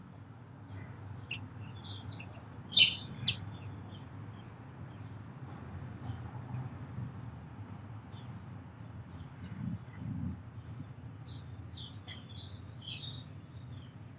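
Sparrows chirping in short, scattered calls: two loud chirps about three seconds in and a flurry near the end, over a steady low hum.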